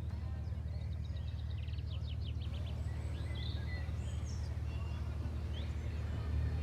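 Small birds chirping and calling, with a quick trill about two seconds in, over a steady low rumble that is the loudest sound.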